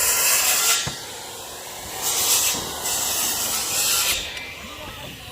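Gritty rubbing or scraping noise in three bursts: one at the start, a short one about two seconds in, and a longer one from about three to four seconds, with quieter gaps between.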